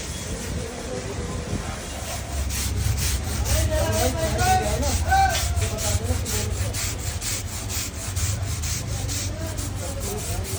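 Rhythmic back-and-forth scrubbing, about four strokes a second, typical of brushing a car radiator's fins clean, over a steady low hum.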